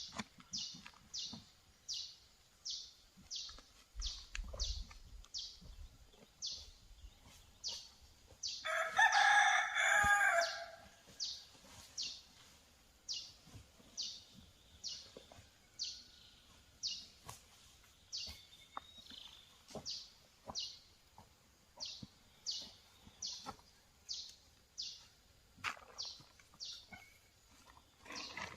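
A rooster crows once, a single call of about two seconds some nine seconds in. Under it, a short high chirp repeats steadily about twice a second.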